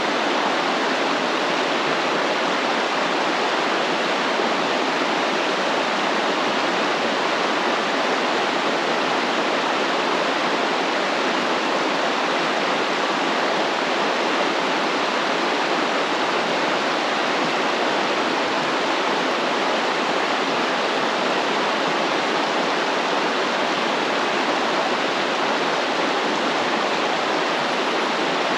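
A stream of water flowing steadily, a constant rushing wash of water with no breaks.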